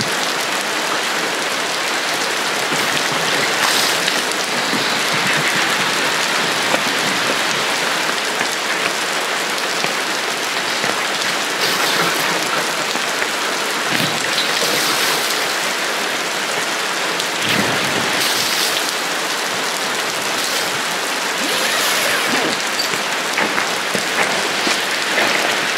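Steady rain falling, with brief louder patches of drops now and then.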